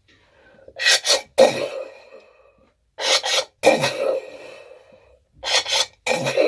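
Mouth-made shotgun impressions voiced into a kitchen jug, three rounds. Each round is two or three sharp bursts with a short ringing tail.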